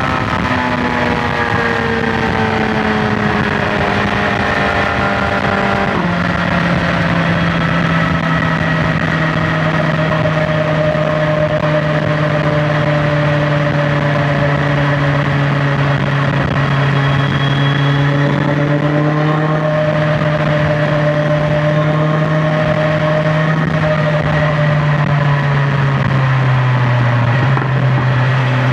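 BMW S1000XR's inline-four engine pulling along at highway speed, with wind noise. The engine note sinks a little, drops sharply about six seconds in as the bike shifts up a gear, then holds near steady at cruise and starts to climb again at the very end.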